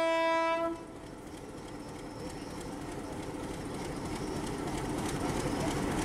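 A diesel locomotive's horn ends its long single-tone blast under a second in. The locomotive's engine and the wheels on the rails then rumble with light clicking, growing steadily louder as the train passes close by.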